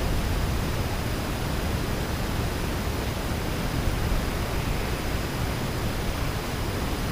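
Steady, even rushing noise with no distinct events and no bird calls standing out.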